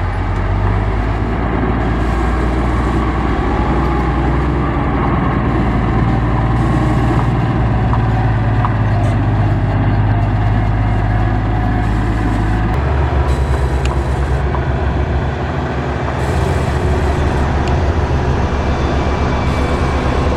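Diesel engine of heavy road-construction machinery running steadily under load. About two-thirds of the way through, the low engine note changes and takes on a faster pulse.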